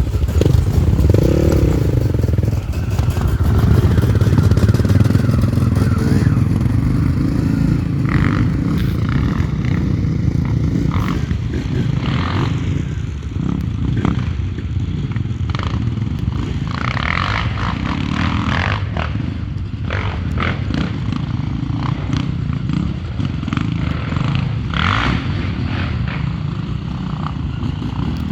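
Enduro motorcycle engines running, loudest in the first six seconds, with scattered clattering knocks.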